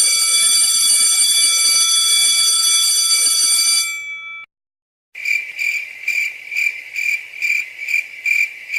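Two electronic beep sound effects: a steady, unbroken beep tone held for about four seconds and fading out, then after a short gap a high beep pulsing about twice a second, like an alarm.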